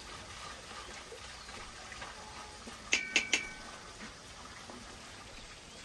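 Faint steady hiss broken about three seconds in by three quick metallic clinks that ring briefly, a utensil striking cookware, with one more light knock at the end.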